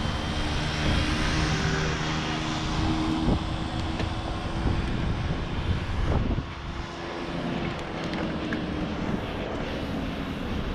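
A steady motor hum over rushing wind and road noise. It drops away briefly about six seconds in, then returns a little lower.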